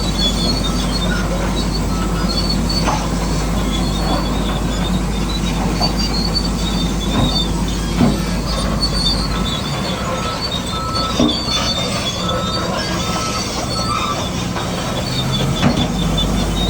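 Electric motors and gearboxes of a radio-controlled model construction machine running, a steady high whine with scattered clicks and scrapes.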